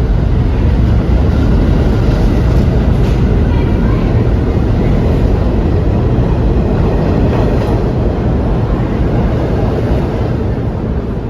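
New York City subway train running through the station: a loud, steady low rumble of wheels on rails that eases slightly near the end.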